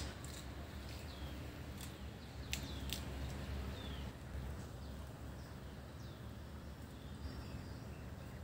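Outdoor ambience: a steady low rumble with a few sharp clicks, and several short high chirps that slide downward, typical of small birds calling.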